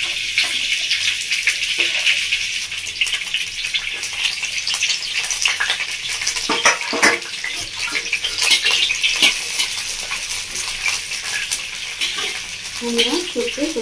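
Young drumstick (moringa) stems sizzling steadily as they shallow-fry in hot oil in a hammered metal kadai, with scattered clicks and scrapes of a spatula turning them.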